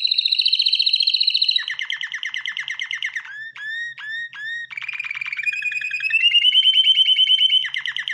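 Canary song: fast rolling trills, a run of short down-slurred whistles in the middle, then more trills, changing phrase every second or two.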